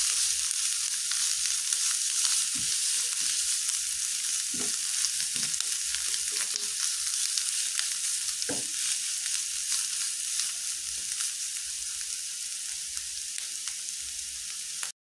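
Sliced mushrooms sizzling in hot oil in a nonstick frying pan, with a few scrapes and knocks of a slotted spatula turning them. The sizzle cuts off abruptly near the end.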